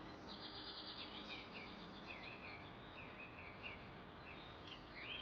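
Faint wild bird chirps, short curved calls repeating every fraction of a second, over a low even background hiss. A thin steady high buzz runs under them for about the first second and a half.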